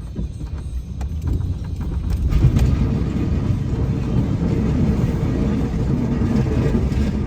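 Snowplow truck running with a rough, steady rumble that grows louder about two seconds in, after a few light clicks.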